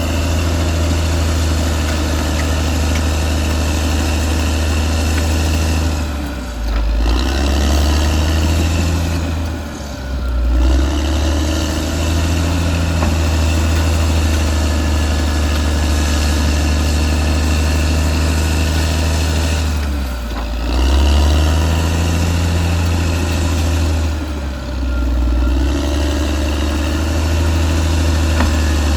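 Caterpillar D6R XL bulldozer's diesel engine running steadily, its note dipping briefly and picking back up four times.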